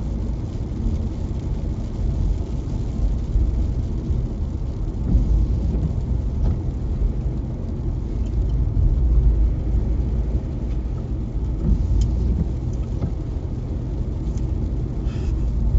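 A car driving, heard from inside: a steady, low rumble of engine and tyres on wet road, with a few faint ticks.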